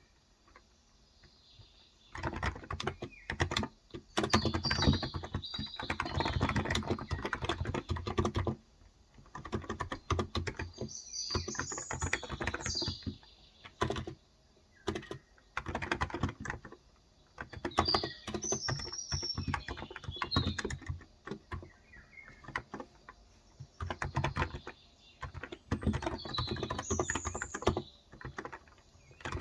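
Typing on a Cox Endeavor electro-capacitive (Topre-style) keyboard with 35 g switches, in bursts of fast keystrokes broken by short pauses. Birds chirp in the background several times.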